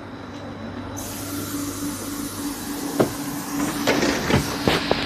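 Commuter train pulling away from the platform: a steady hum, a hiss that starts suddenly about a second in, and several sharp knocks in the last two seconds.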